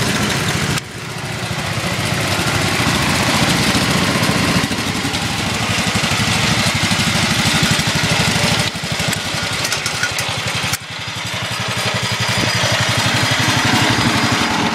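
Small engines of vintage Sears garden tractors running steadily at a fast idle, with rapid even firing pulses. The sound drops off abruptly about a second in and twice more near the middle before picking up again.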